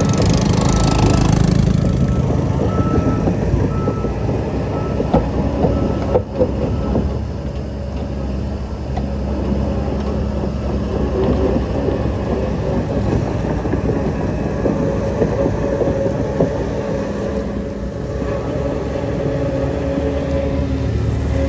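Heavy diesel earthmoving machinery running steadily, with a reversing alarm beeping for the first few seconds. A few sharp knocks come around six seconds in.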